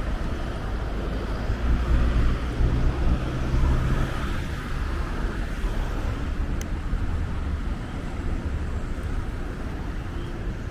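Steady low rumble of a moving double-decker bus heard from on board: engine and road noise, somewhat louder for a couple of seconds near the start, with a single faint click about halfway through.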